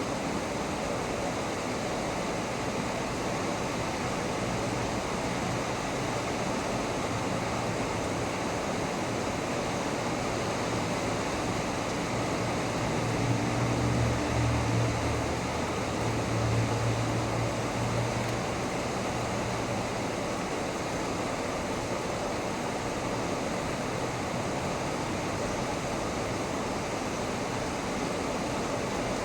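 Heavy rain falling steadily in a thunderstorm. A low rumble rises and fades about halfway through.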